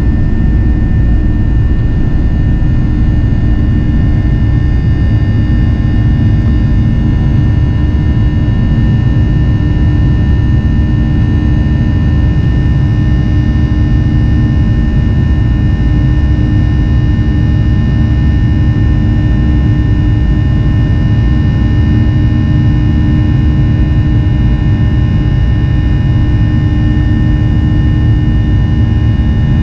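Boeing 737 cabin noise in flight: the steady rumble of the jet engines and rushing air, with a constant hum over it.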